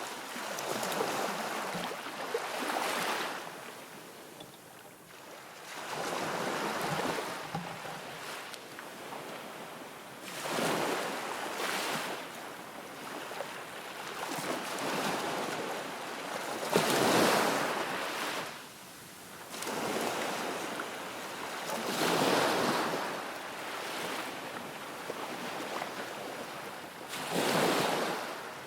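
Waves washing in, swelling and falling every few seconds, with some wind.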